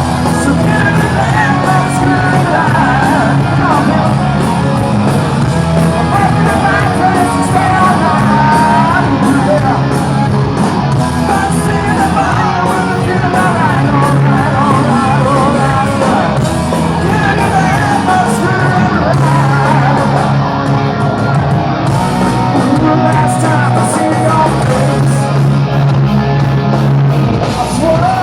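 Live rock band playing a loud hard-rock song with a singer, in a large hall.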